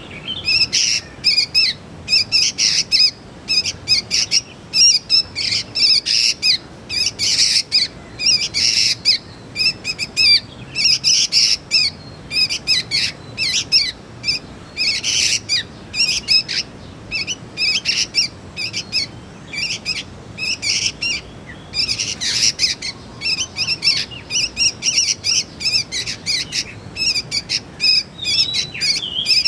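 Juvenile sooty-headed bulbuls (kutilang) calling: a dense, unbroken run of quick high chirps and squawks, many notes a second.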